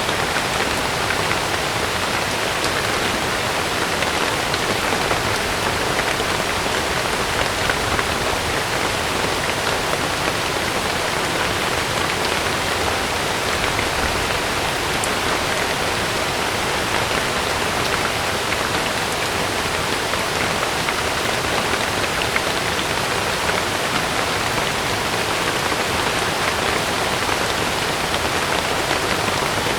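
Heavy rain falling steadily on a camping tent, an even patter with no break.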